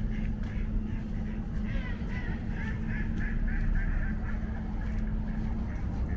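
A waterbird, such as a goose or duck, calling in a quick series of short notes, about three a second, for a couple of seconds, over a steady low hum of traffic.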